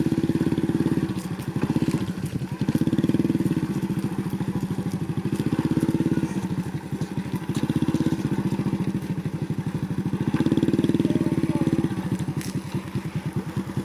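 Motorcycle engine running at a low, steady beat, its sound swelling for about a second every two to three seconds.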